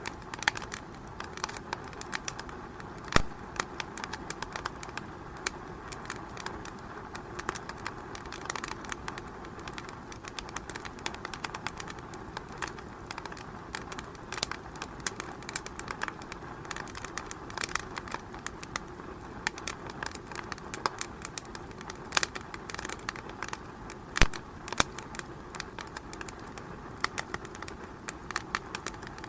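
Wood fire in a fireplace crackling, with many irregular snaps and pops over a steady low hiss; two louder pops, about three seconds in and near twenty-four seconds.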